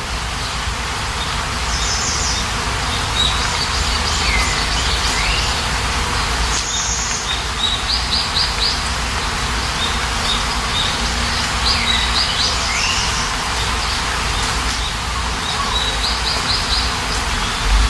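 Steady rain with birds chirping over it: short high trills every few seconds and a couple of swooping calls.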